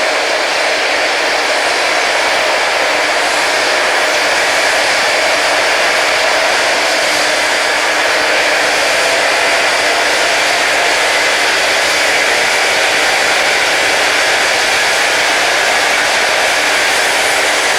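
Rail grinding train at work: its grinding wheels on the railhead make a loud, steady grinding noise that holds even throughout, with little low rumble.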